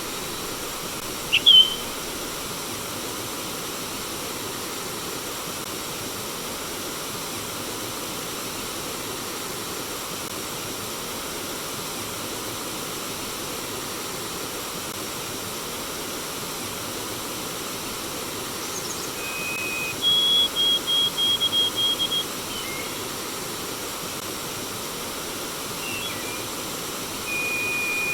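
Steady rush of running water, with a bird calling over it: a sharp upward chirp about a second and a half in, a steady high whistle followed by a fast run of short high notes about twenty seconds in, and another steady whistle near the end.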